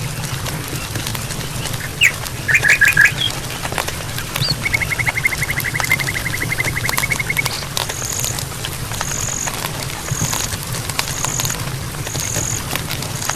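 Forest ambience with birds calling: a quick run of four notes about two seconds in, then a long even trill, then a high thin note repeated about once a second through the second half. Underneath are a steady low rumble and scattered clicks.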